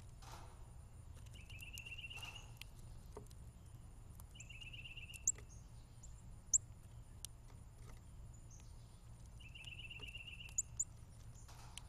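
Small songbirds calling: a short, even trill every few seconds, and several sharp, high chips that are the loudest sounds, two of them in quick succession near the end.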